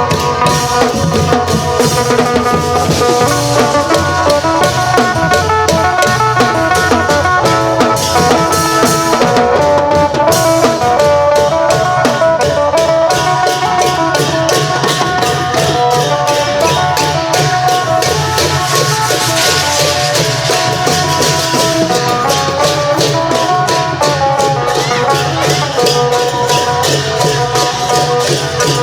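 Isan long-drum (klong yao) band playing, with drums and small hand percussion keeping a steady driving rhythm under a phin lute melody.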